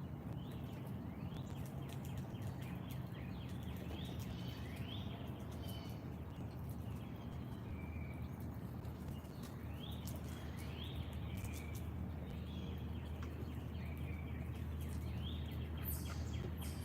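Wild birds calling at a backyard feeder: repeated short upslurred chirps and brief whistled notes, over a steady low background rumble, with a few sharp clicks near the end.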